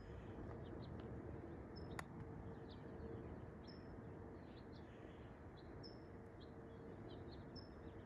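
Quiet outdoor ambience with a bird giving a short high chirp about every two seconds, over a faint steady hum. There is a single sharp click about two seconds in.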